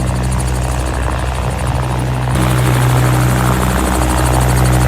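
Helicopter running, heard from inside the cabin: a loud steady drone with a fast even beat, getting a little louder about two seconds in.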